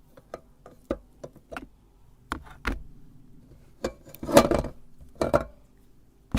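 Irregular clicks and clinks of small hard objects being handled, with a short clattering rattle about four seconds in and another a second later.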